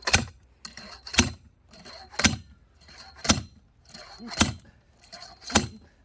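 Heavy splitting axe striking a firewood round again and again, six blows about a second apart, each with a short metallic clank, as it works into a round that is hard to split through the middle.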